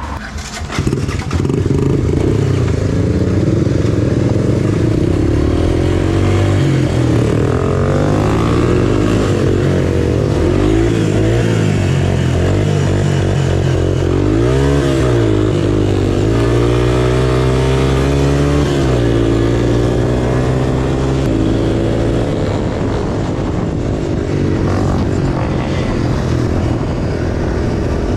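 Single-cylinder off-road engine running loud and close, its pitch rising and falling repeatedly as the throttle is worked on and off while riding.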